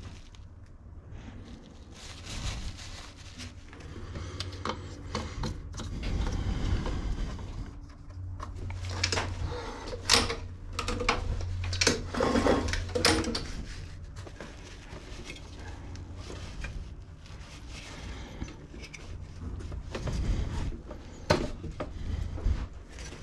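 Hands working on a walk-behind lawn mower: irregular clicks, knocks and scrapes of parts being handled and moved, over a steady low hum.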